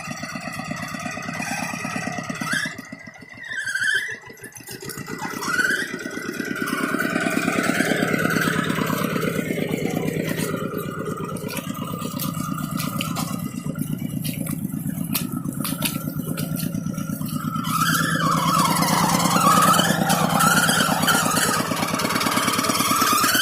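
Tractor engine running with a rapid even beat. It dips briefly twice in the first five seconds, then runs louder and steady as it pulls.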